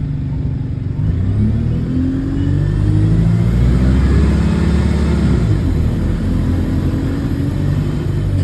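A bus engine heard from on board, pulling and accelerating, its pitch climbing for about four seconds and then easing off about five seconds in. The bus has an exhaust leak.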